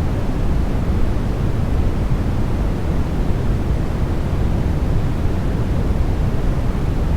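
Steady, unchanging sleep noise track: an even rushing hiss, much heavier in the deep end than the high end.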